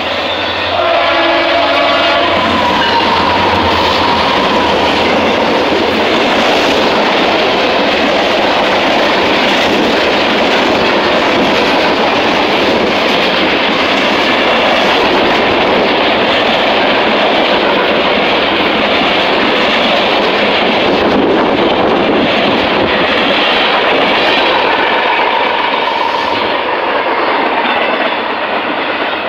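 Two freight trains passing at a grade crossing: a diesel locomotive's horn sounds through the first two seconds, then the steady, loud rumble and clickety-clack of freight cars rolling by close up.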